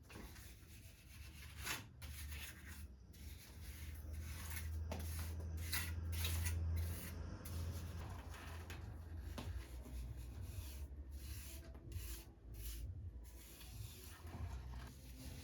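Irregular rubbing and scraping strokes of a hand tool working clay plaster on a chimney, under a low rumble that is strongest in the middle.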